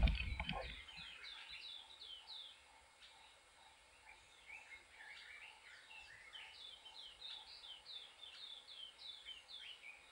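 Garden birds calling: many short, high, downslurred notes, several a second. A loud noise dies away right at the start.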